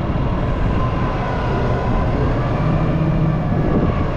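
Excavator's diesel engine running steadily with a faint hydraulic whine, its note growing stronger about halfway through as the machine takes up work.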